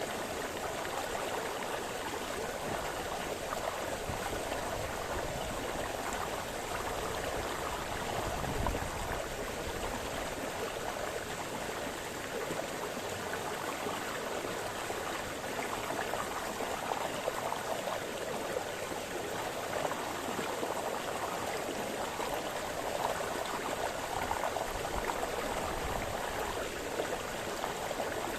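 A small brook splashing and burbling over stones in a steady, continuous rush of water, swelling slightly now and then.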